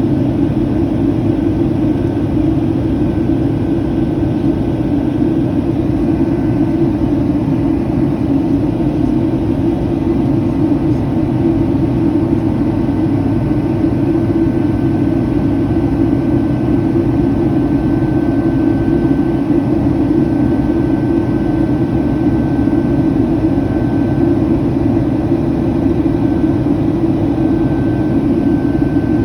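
Steady jet engine and airflow noise of a Boeing 757, heard from inside the passenger cabin: a constant low rush with a faint high whine that comes and goes.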